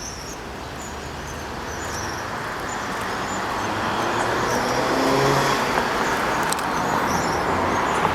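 A road vehicle approaching: its engine and tyre noise grow louder over the first few seconds, then hold. Small birds chirp faintly throughout.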